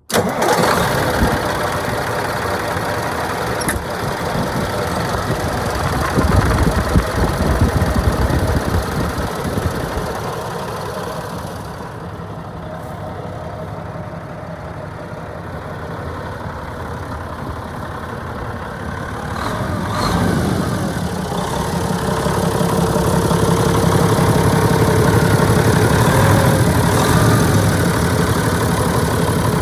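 Heavy truck engine of a 1987 Ford L9000 truck tractor running at idle, steady throughout and louder in the last third.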